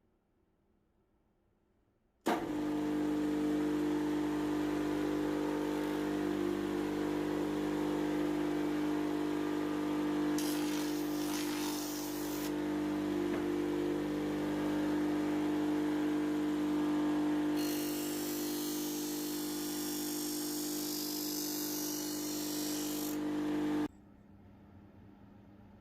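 Electric grinder or polishing motor switched on, running at a steady hum, then cut off abruptly. Twice the steel axe blade is pressed to the wheel, adding a hissing grind for about two seconds and then for about six seconds.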